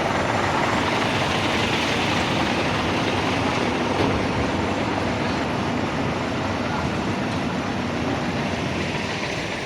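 Heavy diesel engine of a container truck running steadily, a dense rumble that eases slightly toward the end.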